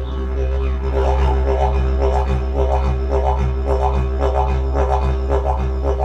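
Didgeridoo playing a continuous low drone, with rhythmic pulses of about two a second worked into it.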